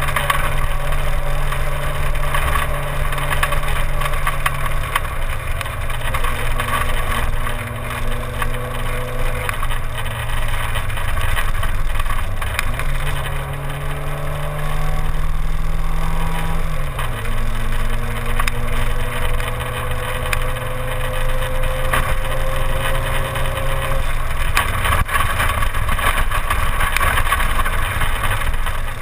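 Simca 1000 rally car's rear-mounted four-cylinder engine pulling hard along a special stage. The engine note holds steady for long stretches, climbs about halfway through, then drops sharply. A constant rushing noise from the wet road and wind runs underneath.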